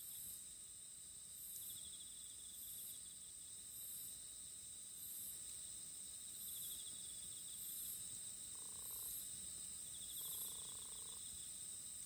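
A chorus of insects such as crickets singing: a steady high trill, a pulsing chirp above it about once a second, and a lower trill that comes in bursts every few seconds. Two faint short tones sound near the end.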